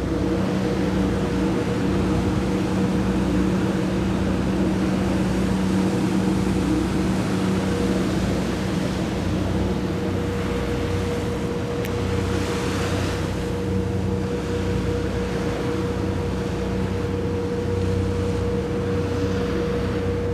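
The high-speed passenger ship Sun Liner 2's engines drone steadily underway, heard on board as a constant low hum under the rush of the hull through the water. A brief, louder rush of noise comes about two-thirds of the way through.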